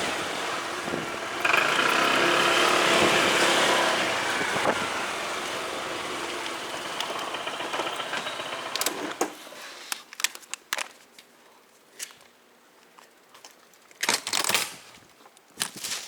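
Motorcycle riding with engine and road noise, the engine pitch climbing for a few seconds early on and then easing. About nine seconds in the engine noise stops, leaving scattered sharp clicks and rustles of handling.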